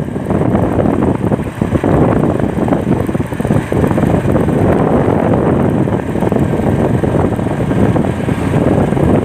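Loud wind rushing over the microphone on a moving vehicle, a steady rough noise with the vehicle's running sound underneath.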